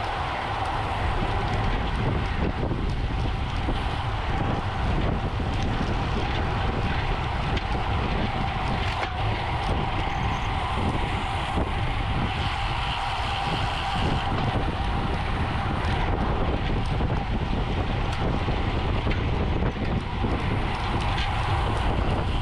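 Steady wind rushing over the microphone while riding in a bicycle race, with a faint steady hum running under it.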